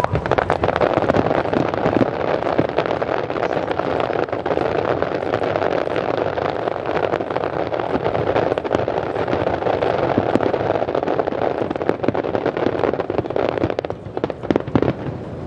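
Fireworks crackling: a dense, continuous stream of small pops and crackles that thins out near the end into separate sharp cracks.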